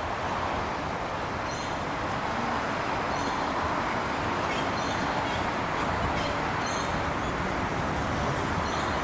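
Tram approaching on the light-rail line, a steady running noise that grows slightly louder, with faint short high chirps about once a second.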